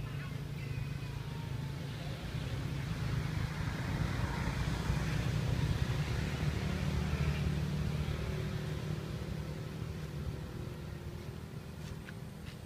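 A motor vehicle's engine rumble that swells to its loudest about halfway through and then fades, as a vehicle passing by.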